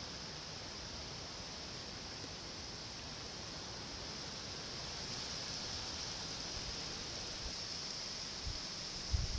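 Steady outdoor ambience: a constant high hiss, with low wind bumps on the microphone near the end.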